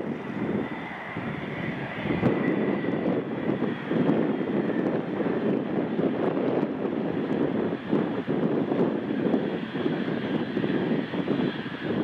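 Business jet's turbofan engines running: a steady rush with a faint high whine over it, and wind buffeting the microphone.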